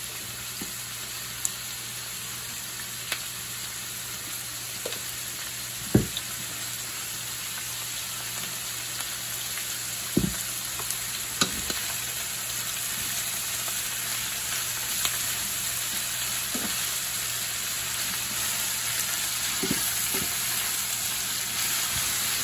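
Sliced sweet peppers, onion and garlic sizzling in a stainless steel skillet, a steady frying hiss that grows slightly louder. Occasional sharp clicks and knocks come as the peppers are stirred, the loudest about six seconds in.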